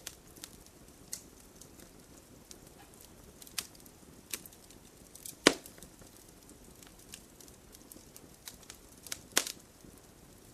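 Campfire burning, the wood crackling with scattered sharp pops over a low steady hiss; two louder pops stand out, one about halfway through and one near the end.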